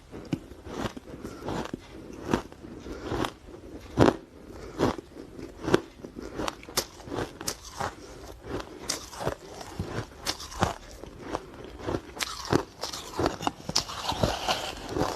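Ice being bitten and chewed: a steady series of sharp, irregular crunches, one or two a second, becoming denser and more crackly near the end.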